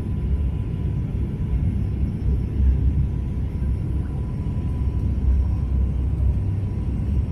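Steady low rumble of an airliner's engines and airflow, heard from inside the passenger cabin during the descent, with a faint steady whine above it.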